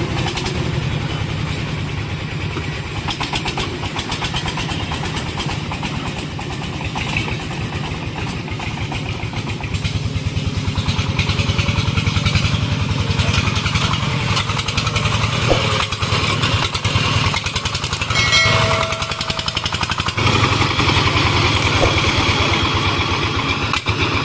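Single-cylinder diesel engine of a Vietnamese công nông farm truck running steadily with a fast, even thudding firing beat. About three quarters of the way through, a brief high tone sounds over it.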